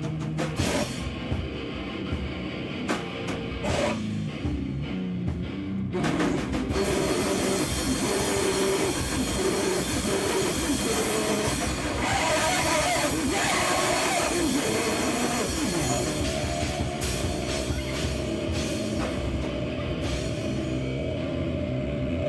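Live band playing loud, heavy noise rock with drum kit and guitar. It starts with sparse separate hits and swells into a dense wall of sound about six seconds in.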